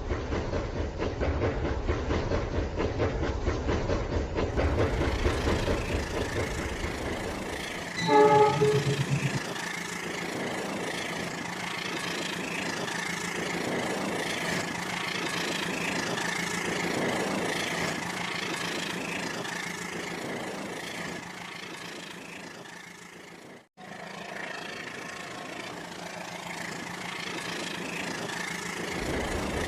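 Rail King battery-powered toy train running on its track, a steady rattling motor-and-wheel noise with fine rapid ticks. About eight seconds in, a loud, short electronic horn sounds, and afterwards the running sound is lighter and hissier.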